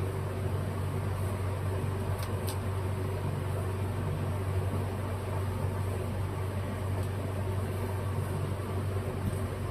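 A steady low mechanical hum, like a fan or appliance motor running, with a few faint light clicks about two seconds in.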